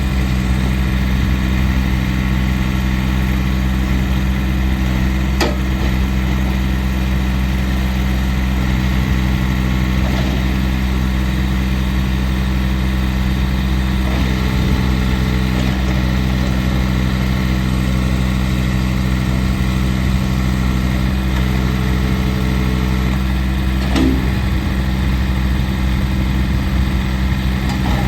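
Massey Ferguson GC1723EB sub-compact tractor's diesel engine idling steadily, with a couple of faint clicks.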